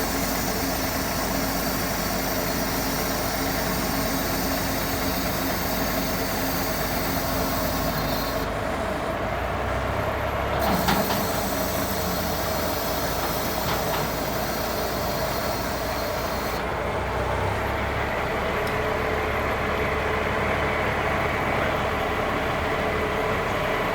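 Cummins 350 diesel engine of a 1980 International crane truck running steadily. A high hiss over it drops out about eight seconds in, returns, and drops out again past sixteen seconds, and there is a single knock about eleven seconds in.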